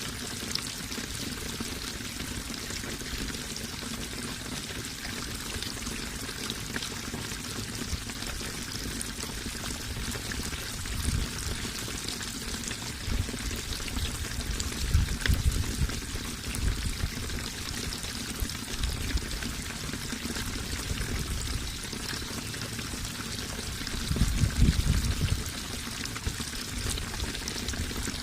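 Running water flowing and splashing steadily, with a few deeper low surges around the middle and again near the end.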